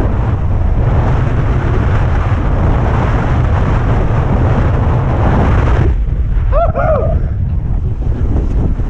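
Blizzard wind buffeting the microphone in a loud, steady low rumble, with a hiss that thins out about six seconds in. Just after that, two short pitched calls that rise and fall sound briefly through the wind.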